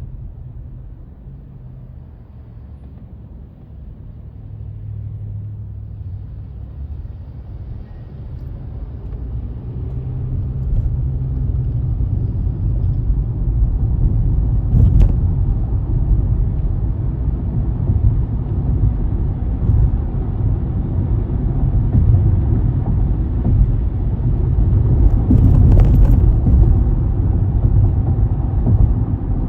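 A car driving, with a low rumble of road and engine noise that grows louder over the first ten seconds or so and then holds steady.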